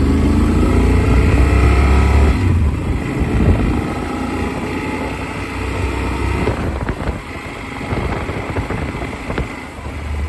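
Motorcycle engine accelerating, its pitch rising for about two and a half seconds, then falling away into rougher running. Wind buffets a helmet-mounted phone's microphone throughout.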